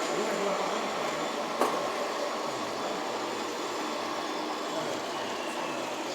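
Steady running noise of radio-controlled model trucks and construction machines, with one sharp click about one and a half seconds in and a faint falling whine near the end.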